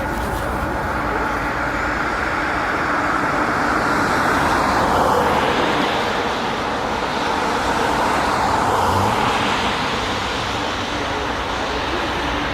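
Jet airliner engines making a steady rushing roar that swells a little about four seconds in and again near nine seconds.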